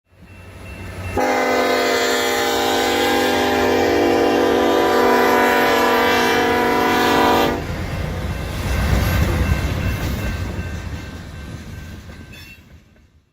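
Locomotive air horn, a Nathan AirChime K5HL five-chime, sounding one long chord of about six seconds. It is followed by the low rumble of the passing train, which fades away.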